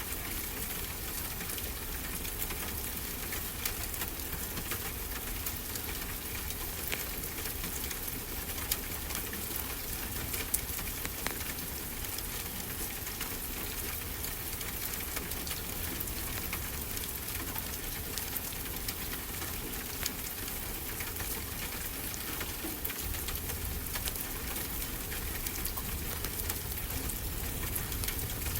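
Fireplace crackling, with scattered small pops and a few sharper snaps, over the steady rush of ocean waves.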